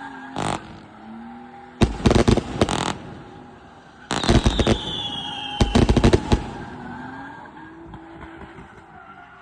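A 500-shot fireworks cake firing: clusters of rapid bangs and crackling, with a couple of falling whistles about four seconds in, then tailing off.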